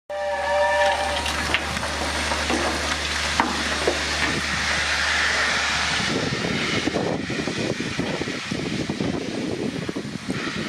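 Steam locomotive with steam hissing loudly. A short chord of several steady tones sounds in the first second, and about six seconds in the low hum drops away and the sound turns to a rougher rushing noise.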